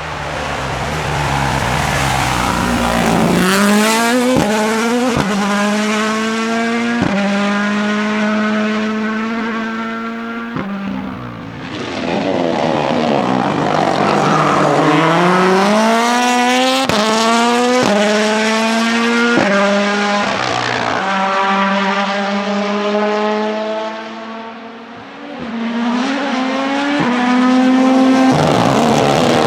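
A Ford Puma Rally1's 1.6-litre turbocharged four-cylinder engine accelerating hard through a run of quick upshifts, each shift a sudden drop in pitch. The engine lifts off about eleven seconds in, then pulls through more rapid upshifts, eases briefly near the end and accelerates again.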